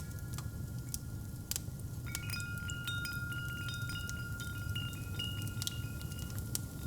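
Wind chimes tinkling, with a cluster of strikes about two seconds in and one long tone ringing on, over a fireplace's steady low rumble and scattered sharp crackles.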